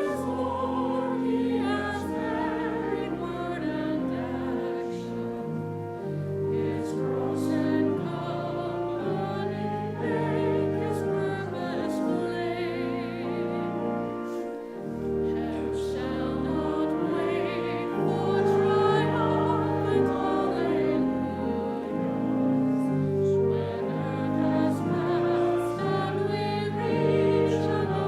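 Choir singing a sacred piece with instrumental accompaniment, sustained notes over a steady bass line.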